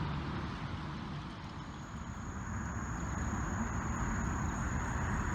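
Steady rumble and hiss of highway traffic, with a thin steady high whine coming in about halfway through.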